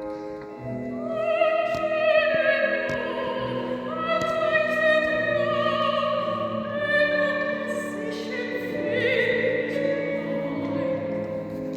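A woman singing in a classical, operatic style, holding long high notes with vibrato over instrumental accompaniment.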